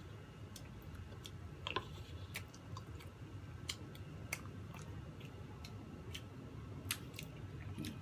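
Close-miked chewing and eating of soft cream-layered chiffon cake, with scattered small sharp mouth clicks.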